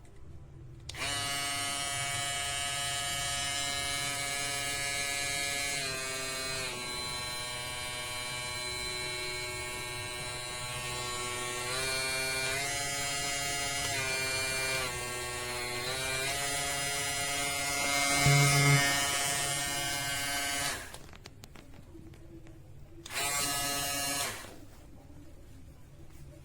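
Cecotec PrecisionCare X-Trimm Pro electric shaver running with a steady buzzing motor hum whose pitch dips and shifts slightly several times. It is switched off near the end, then run again briefly.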